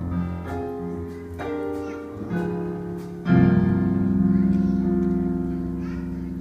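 Keyboard playing a slow song introduction: a few chords, then a louder chord about three seconds in that is held and slowly fades.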